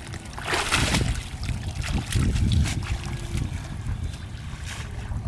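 Water splashing and sloshing, with a louder splash about half a second in, over wind rumbling on the microphone.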